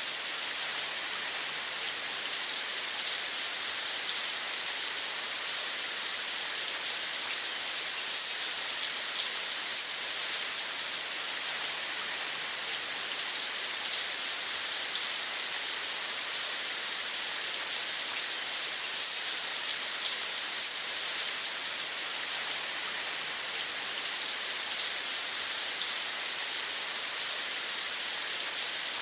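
Steady rain: an even, unbroken hiss of many fine drops, with no single event standing out.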